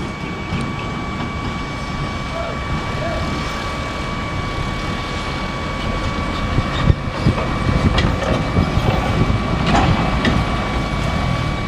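Steady traffic noise from passing trucks and buses, with a constant high-pitched tone running under it and a few faint knocks.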